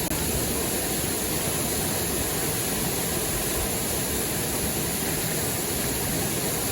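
Steady rush of a river or waterfall, an even noise that holds at a constant level.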